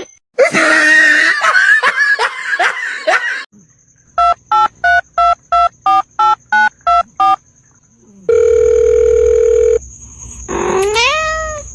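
A run of ten short, evenly spaced electronic beeps, about three a second, followed by a steady held tone like a telephone dial tone.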